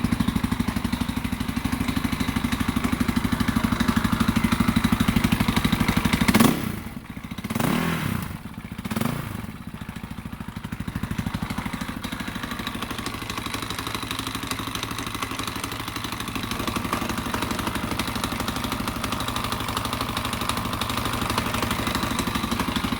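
2001 KTM 520 EXC single-cylinder four-stroke dirt bike engine running with a knocking noise, the throttle blipped a few times about six seconds in before it settles back to a steady idle.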